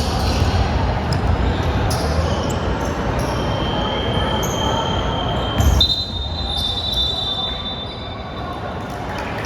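Basketball bouncing on a gym court amid players' voices, with the echo of a large hall. A thin high steady tone comes in a few seconds in, then jumps higher after a loud thump and fades out about two seconds later.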